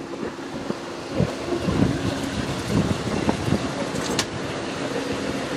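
Infiniti sedan's engine running at low speed, a steady hum with shifting low sounds in the middle, and a sharp click about four seconds in.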